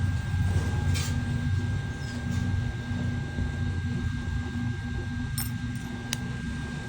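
A few light metallic clicks and clinks over a steady low hum.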